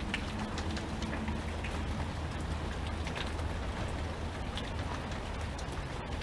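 Steady rain, with many scattered raindrop ticks over an even hiss and a low steady rumble underneath.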